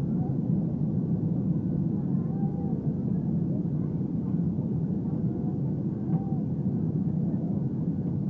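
Steady cabin noise of an Airbus A320 in flight, a constant rumble of engines and airflow heard from inside the passenger cabin, with a faint steady tone running through it.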